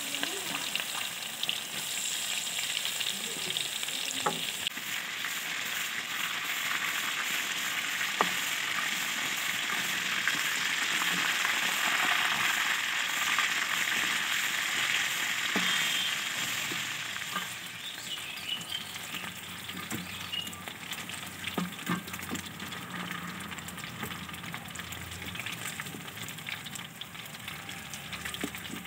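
Chicken satay skewers deep-frying in hot oil in a metal wok, sizzling steadily, with occasional sharp knocks of a wooden spatula as the skewers are turned and lifted. The sizzle is loudest about halfway through and dies down in the last third.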